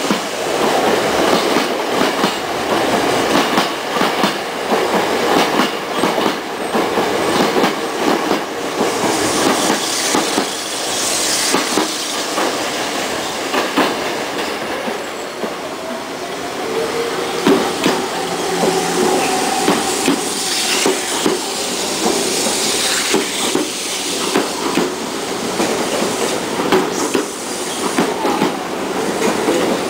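Electric commuter trains running close by through a station junction: a steady clatter of wheels over points and rail joints, with faint wheel squeal at times.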